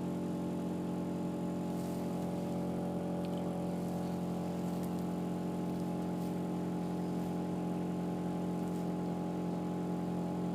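Ford Focus 2 2.0 four-cylinder engine idling steadily after a cold start in minus 23 °C frost.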